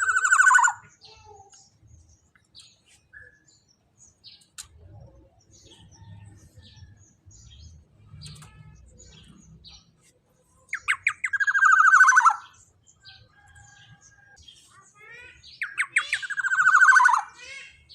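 Black-naped oriole calling in three loud bursts, at the start and about 11 and 16 seconds in. Each burst is a quick run of notes ending in a long rasping note that falls in pitch, with faint short chirps between the bursts.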